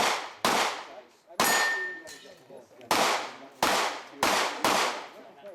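Pistol-caliber carbine firing about seven shots at an uneven pace, each with a sharp crack and an echoing tail, with a short metallic ring from a hit steel target after one of them.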